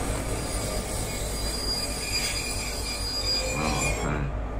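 Train running on rails, a steady rumble with a thin high whine over it from the wheels; the high whine drops away near the end.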